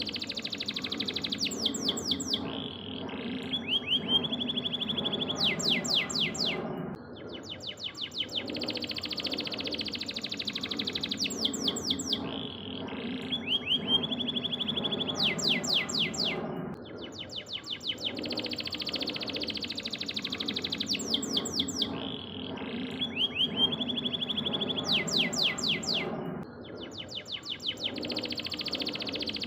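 Domestic canary singing a long song of rapid trills and chirps, over a steady low hum; the same passage repeats about every ten seconds, as a looped recording.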